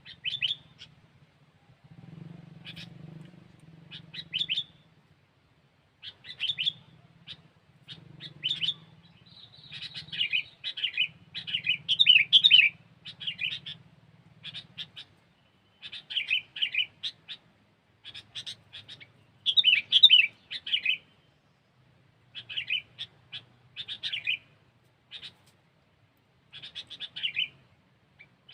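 Sooty-headed bulbul (kutilang) singing: short bursts of quick chattering notes, a phrase every second or two, some much louder than others.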